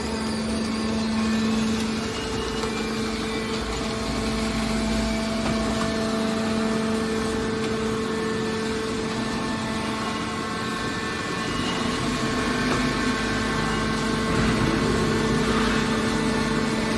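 Steady machinery hum: a motor running with a constant drone and a noisy background.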